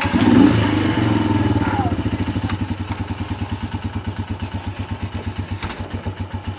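Air-cooled single-cylinder engine of a Panterra 125cc dirt bike, just started from cold: it revs up briefly about half a second in, then drops back and settles into an even, steady idle.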